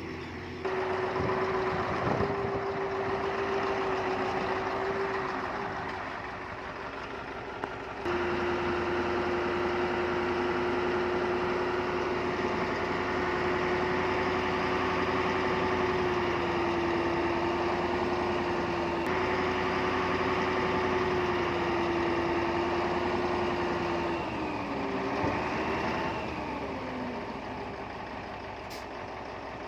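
Diesel engine of heavy earthmoving machinery running with a steady, pitched drone. The sound jumps abruptly louder about eight seconds in, and the engine's pitch briefly sags and recovers near the end.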